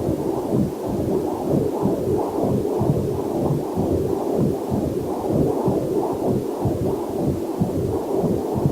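Fetal Doppler heart monitor sound: a steady, rapid whoosh-whoosh heartbeat of a little over two beats a second, under a faint steady hiss of waterfall.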